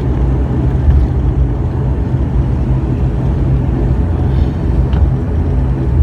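Steady low rumble of an airliner's engines and airframe heard from inside the passenger cabin during landing.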